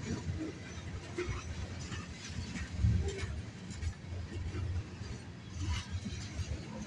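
Freight train's tank cars and boxcars rolling past on the rails: a steady low rumble of steel wheels on track, with scattered clanks and clicks.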